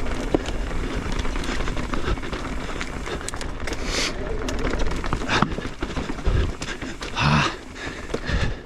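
Mountain bike riding along a trail: steady wind rumble on the bike-mounted microphone, with the tyres and bike clattering over dirt and rocks in scattered sharp knocks. The rider lets out a short vocal sound about seven seconds in.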